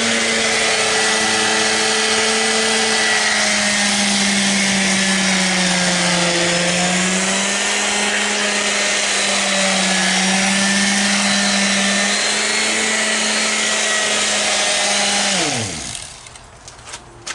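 Electric concrete vibrator motor running steadily at a high hum, its pitch wavering slightly, then switched off about fifteen seconds in and winding down quickly.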